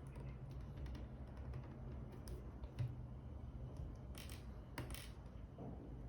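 Faint small clicks and taps from handling a G-Shock watch while working on its band, with two short scrapes about four and five seconds in, over a low steady hum.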